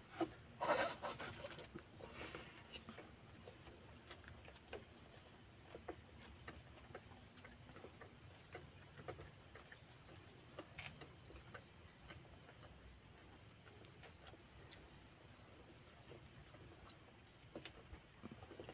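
Quiet close-up chewing and mouth clicks of children eating raw food, with a louder cluster of bites and crunches in the first two seconds. A steady high-pitched whine sits behind it.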